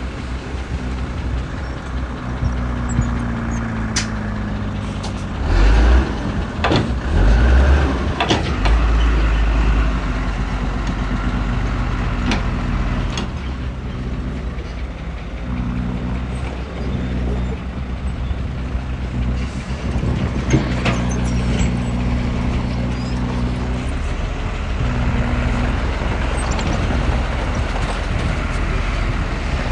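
Heavy machinery diesel engine running steadily. Its pitch drops a few seconds in, then it revs hard several times between about six and nine seconds in, with occasional sharp knocks.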